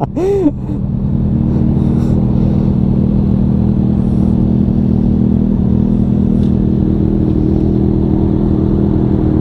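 Inline-four sportbike engine with a short rise and fall in pitch at the start, then running at a steady speed from about a second in.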